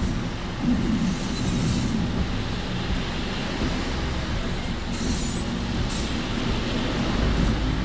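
Steady road and engine noise of a moving car heard from inside the cabin, a continuous low rumble with a hiss of tyres.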